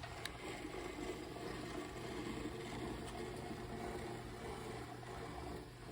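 Table of a Storm Vulcan 15 crankshaft grinder being rolled along its ways by hand, a faint steady rumble that stops near the end, over a steady low hum.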